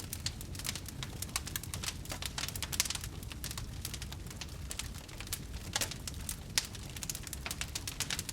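Wood fire burning with dense, irregular crackles and pops over a low steady rumble.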